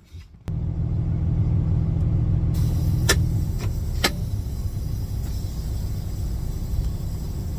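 Diesel engine of a new International LT semi truck idling, a steady low rumble that cuts in about half a second in. Two sharp clicks sound about three and four seconds in.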